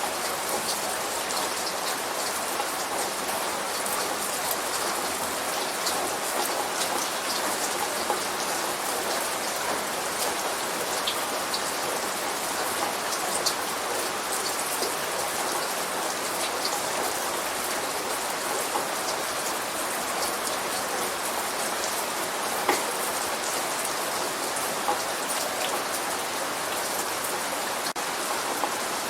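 Light rain falling steadily, with single drops ticking sharply now and then.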